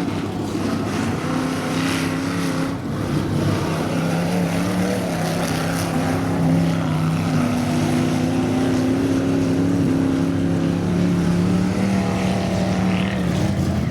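Off-road vehicle engine running at high, steady revs, its pitch shifting slightly up and down.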